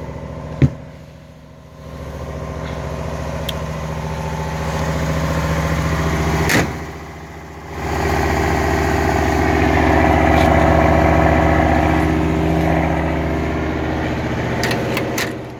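Vehicle engine idling steadily, with two sharp clicks, about half a second in and about six and a half seconds in, each followed by a brief quieter stretch before the running sound swells back up.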